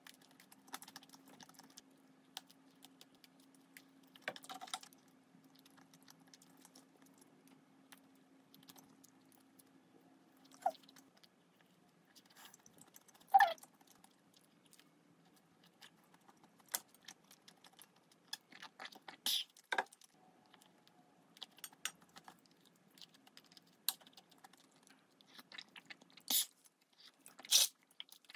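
Eating close to the microphone: soft chewing and biting into filled twisted doughnuts (kkwabaegi), with a scattering of small clicks and a few sharper, louder clicks and taps at irregular intervals.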